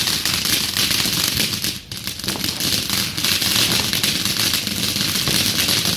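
Firework crackling: a dense, rapid, continuous crackle of tiny pops, dipping briefly about two seconds in.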